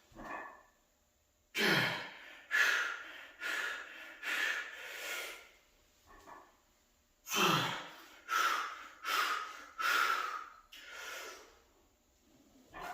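A man breathing hard from the exertion of heavy close-grip bench pressing: forceful, noisy exhalations in two runs of about five breaths each, with a short pause between them.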